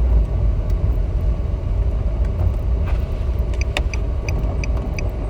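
Steady low rumble of a car driving, heard from inside the cabin. About three and a half seconds in, the turn-signal indicator starts ticking evenly, about three clicks a second.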